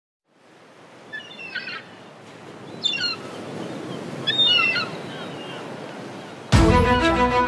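Birds calling in three short chirping phrases over a steady outdoor rush that fades in. About six and a half seconds in, music with bowed strings starts suddenly.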